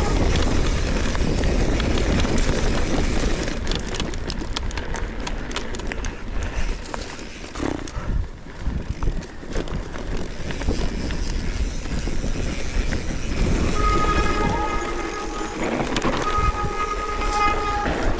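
Wind rushing over the microphone with tyre and trail noise from a bicycle on a rough trail, with rattling clicks in the middle. About two-thirds of the way through, a steady high buzzing tone comes in twice.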